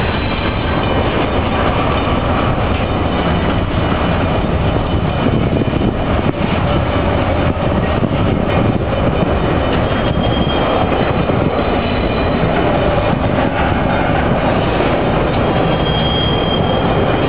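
Freight cars of a BNSF double-stack container train rolling past, with a steady loud rumble and rattle of steel wheels on rail. A faint high wheel squeal comes in twice, about two-thirds of the way through and near the end.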